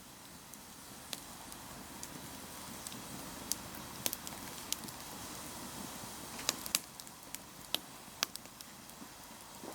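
Wood fire crackling inside a stainless-steel vacuum-cleaner body used as a fire barrel: irregular sharp pops and snaps, a few louder ones about four seconds in and again near seven seconds, over a steady low rush.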